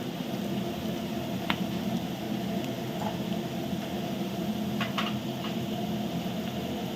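Onions and spices frying in hot oil in a large cooking pot, a steady sizzle, with a few sharp clicks about a second and a half in and again around five seconds in.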